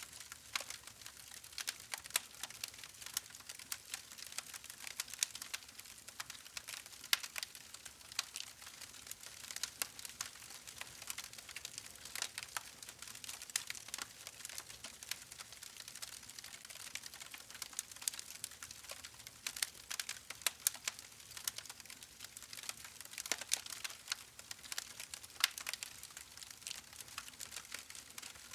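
Wood fire burning in a fireplace, crackling: frequent irregular sharp pops and snaps over a soft hiss.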